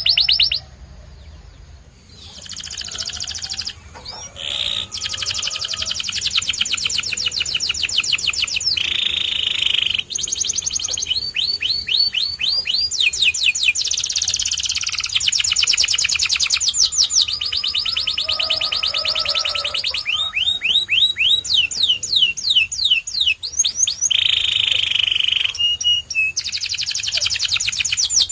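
Canary singing: long rolling trills of rapidly repeated high notes, phrase after phrase with the note type changing between them, after a brief lull about a second in.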